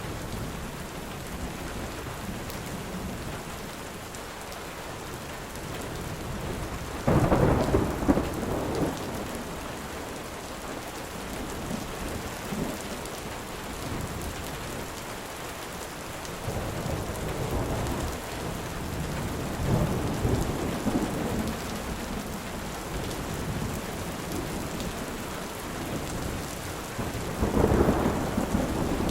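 Steady rain falling, with thunder: a sudden loud crack and rumble about seven seconds in, softer rolls of thunder in the middle, and another loud rumble near the end.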